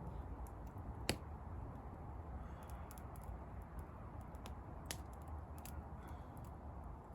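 Wood fire crackling, with scattered sharp pops over a low steady rumble; the loudest pop comes about a second in and another just before five seconds.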